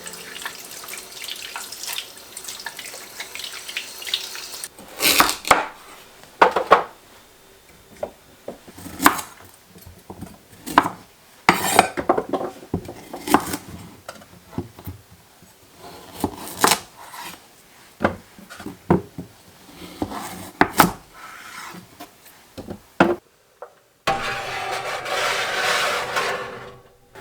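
Dishes, pots and utensils clinking and knocking in scattered strokes, then water running for about three seconds near the end.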